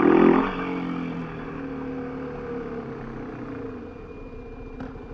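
Kawasaki KLX250SF supermoto's single-cylinder engine revving at the start, then the revs falling away and settling into a quieter, steady low run.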